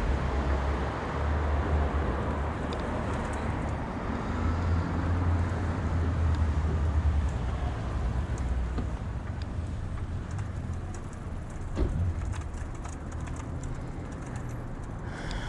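Street traffic: car noise that is loudest in the first few seconds and fades away, over a low, uneven rumble. A brief knock comes near the end.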